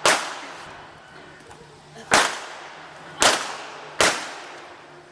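Four gunshots from the show's shootout: one, then three more coming faster from about two seconds in, each with a short echoing tail.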